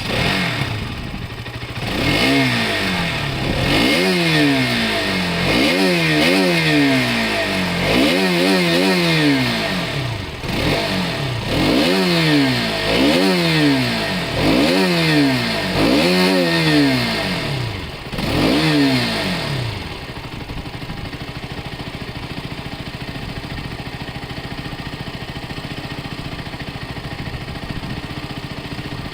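Motorcycle engine starting, then revved repeatedly, each rev rising and falling about every two seconds. After about 20 seconds it settles to a steady idle.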